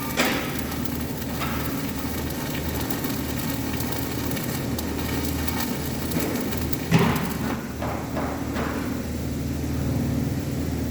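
Electric arc welding: a crackling arc over a steady machine hum. A sharp knock comes just after the start and a louder one about seven seconds in, followed by a few lighter clicks, and the crackle thins out after that second knock.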